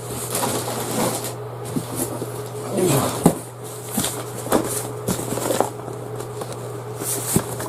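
Rustling and clattering of gear being handled, with several short knocks, over a steady low hum.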